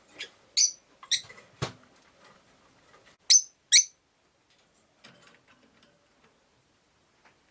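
Rosy-faced lovebirds giving short, shrill chirps: three in quick succession at the start, then a pair about three seconds in. A single sharp knock comes between them.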